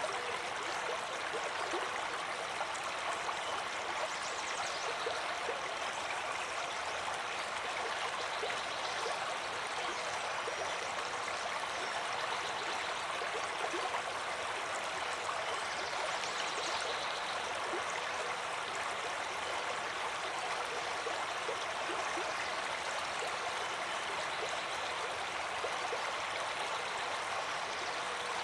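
Water flowing steadily in a stream: an even, unchanging rush with no break.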